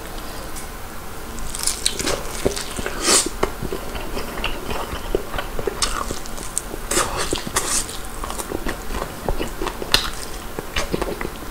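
Crispy Korean old-style whole fried chicken being bitten and chewed, with a string of crunching, crackling bites; the loudest crunches come about two, three, seven and ten seconds in.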